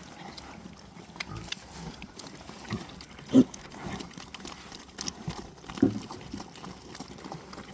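Pigs grunting while they eat, a few short grunts, the loudest about three and a half and six seconds in, among soft feeding noises.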